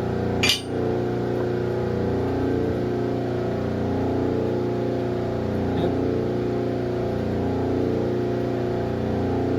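A machine motor running with a steady hum. A single sharp click comes about half a second in.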